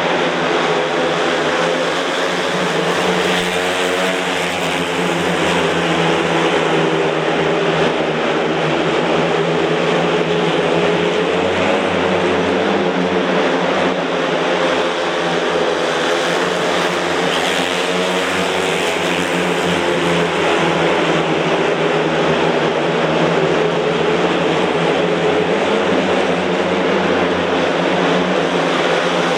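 Several speedway motorcycles' single-cylinder methanol engines running hard during a race, their pitches wavering up and down as they accelerate and ease off.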